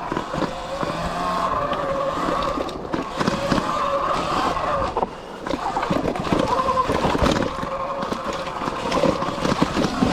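Sur Ron X electric dirt bike riding a rough trail: the electric motor's whine rises and falls in pitch with the throttle, over tyre noise and frequent knocks and rattles from the bike over bumpy ground. The whine drops away briefly about halfway through, then picks up again.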